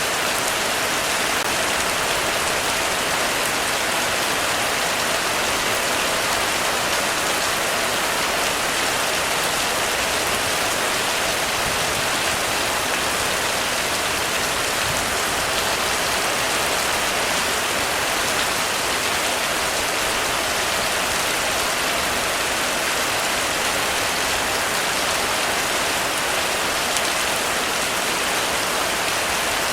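Heavy rain falling steadily on a roof: a dense, even patter with no pauses and no thunder.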